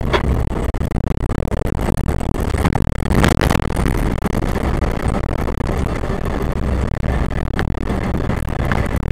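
Fire engine running down the road, heard inside the cab: a steady low engine and road rumble with scattered clicks and rattles, and a short hiss about three seconds in.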